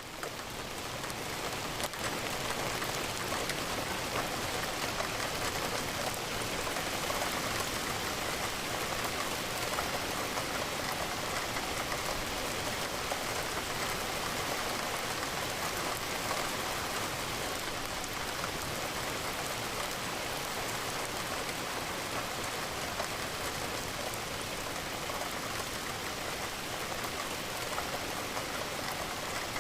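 Steady rain with the patter of raindrops against a window, rising to full level over the first two seconds and then even.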